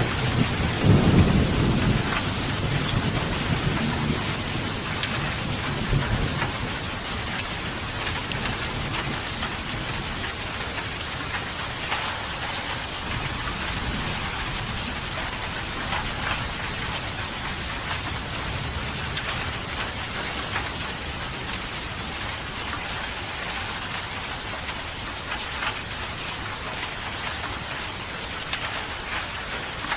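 Steady heavy rain hissing, with the tail of a thunder rumble at the start that fades away over the first few seconds, leaving even rain with scattered drop taps.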